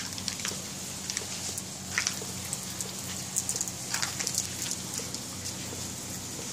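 Rain falling steadily, a constant hiss with scattered sharp ticks of drops striking nearby surfaces.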